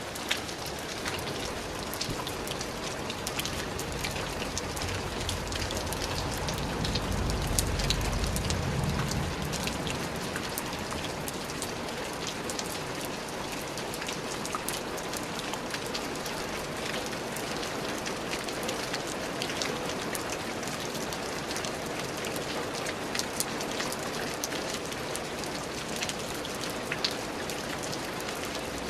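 Steady rain, with many separate drop hits heard over the even hiss of the downpour. A low rumble swells and fades about a quarter of the way in.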